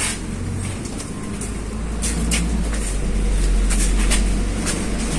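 MAZ-215 articulated city bus heard from inside the cabin: the engine drones low under road noise, growing louder about a second and a half in. Short clicks and rattles sound throughout.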